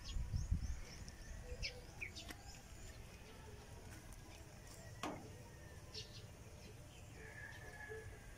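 Small birds chirping: a quick run of short high chirps in the first couple of seconds, then a few scattered calls and a longer held note near the end, over a low rumble in the first second.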